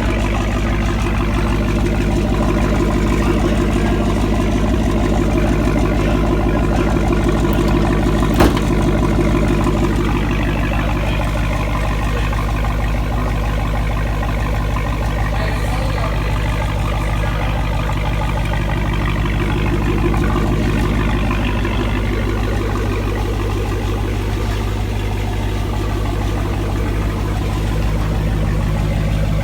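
Supercharged 6.2-litre Hemi V8 from a 2018 Dodge Charger Hellcat, freshly swapped into a 2011 Charger, idling steadily. One sharp click is heard about eight seconds in.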